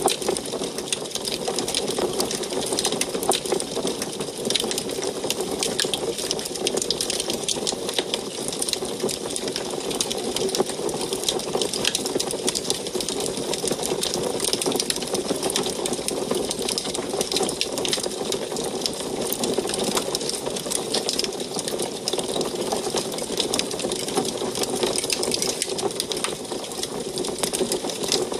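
Wood fire crackling in an antique wood stove: dense, irregular crackles and pops over a steady rush of burning.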